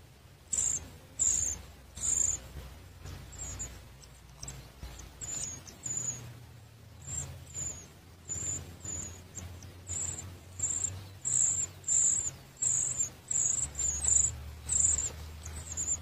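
A small bird's short, very high-pitched peeping calls, repeated about once or twice a second, coming faster in the second half.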